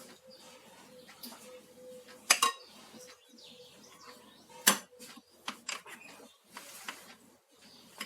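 A metal spoon clinking against a mixing bowl and cake mould as batter is spooned in: a sharp double clink about two seconds in, a louder one near the middle, then a few lighter taps.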